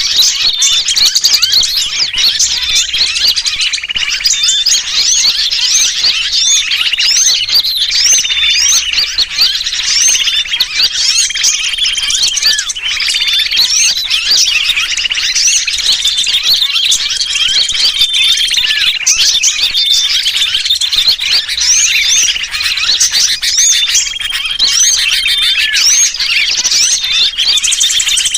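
Bird-trapping lure recording: a dense, unbroken chorus of many small birds chattering and chirping, mixed with the distress calls of a sooty-headed bulbul caught and pinched. The high calls overlap without pause at a steady loud level.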